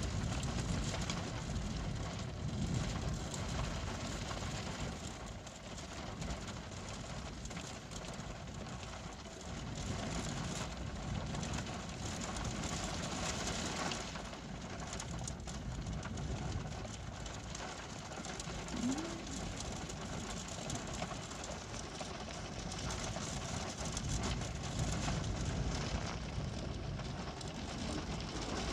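Steady heavy rain in a thunderstorm, an even hiss over a low rumble that swells and eases.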